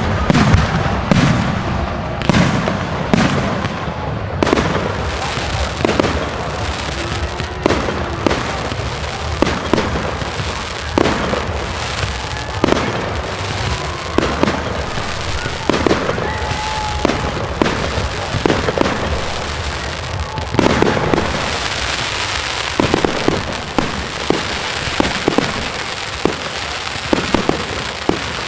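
Aerial fireworks display: shell bursts going off one after another, about one or two a second, over continuous crackling, which thickens into a dense crackle about 21 seconds in.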